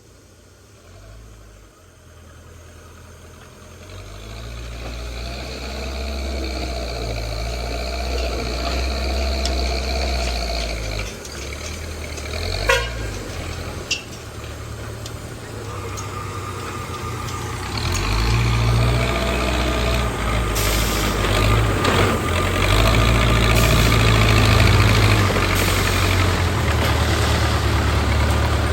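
Backhoe loader's diesel engine working under load, its deep rumble swelling a few seconds in and again past halfway, with a steady higher whine over it. There is one brief sharp sound about halfway through.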